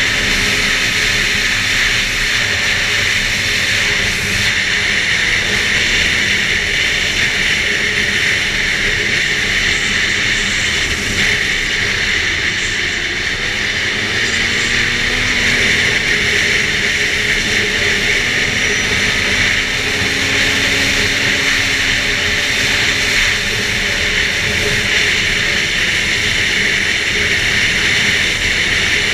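2011 Arctic Cat F8 Sno Pro snowmobile's two-stroke twin engine running steadily at trail speed, its note drifting a little up and down in pitch.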